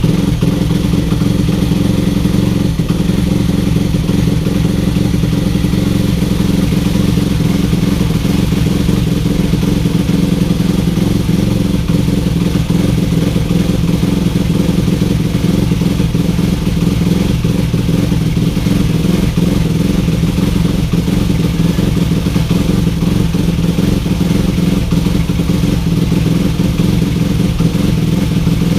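Freshly overhauled Honda Monkey's bored-up single-cylinder four-stroke engine running steadily at idle just after starting.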